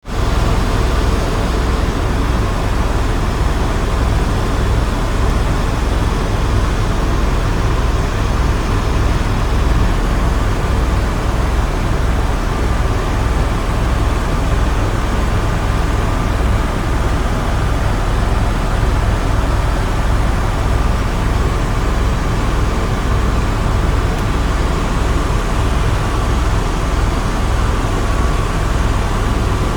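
Airbus helicopter in steady flight: the fast, even beat of the main rotor under a steady turbine whine.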